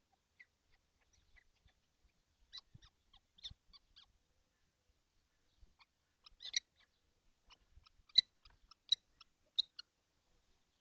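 Kestrel nestlings stirring in a nest box: scattered short, high-pitched ticks and chirps with a few soft knocks, in two clusters, the busier one in the second half.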